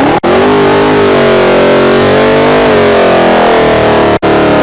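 A car engine held at high, nearly steady revs after a fast rev-up, very loud, under a heavy hiss. The sound cuts out for an instant twice, about a quarter second in and near the end.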